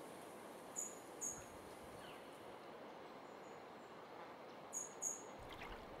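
Steady background hiss with a small bird's short, high chirps: two in quick succession about a second in, and two more near the end.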